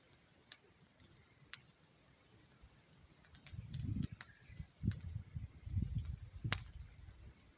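Wood campfire crackling: sparse sharp pops and snaps, a handful in all. From about halfway, low uneven rumbling noise joins them.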